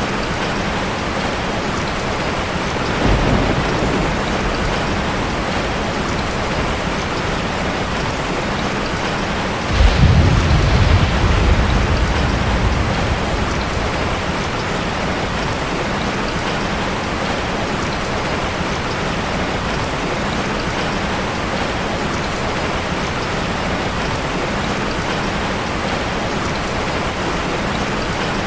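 Steady heavy rain, with low rumbles of thunder: a short one about three seconds in and a louder, longer roll starting near ten seconds that fades over a few seconds.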